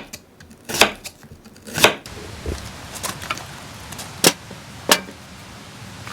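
Three sharp knocks about a second apart, typical of a knife chopping food on a cutting board. From about two seconds in comes a steady hiss with scattered taps and clicks.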